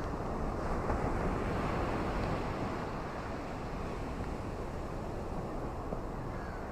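Ocean waves rushing on a shore, with wind. The surge swells about a second in and eases off after about three seconds.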